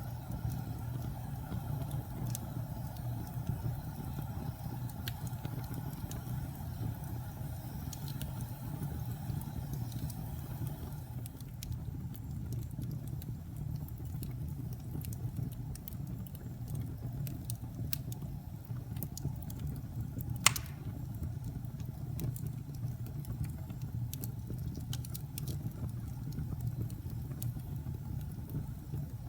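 Wood fire crackling in a fireplace: scattered small crackles over a steady low rumble of the burning, with one sharp loud pop about two-thirds of the way through.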